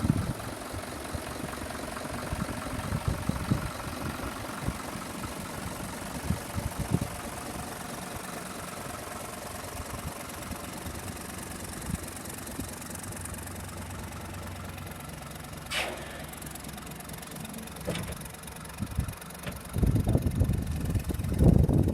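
Kubota M-120 tractor's diesel engine idling steadily. A sharp click comes about three-quarters of the way through, and loud low thumps come near the end.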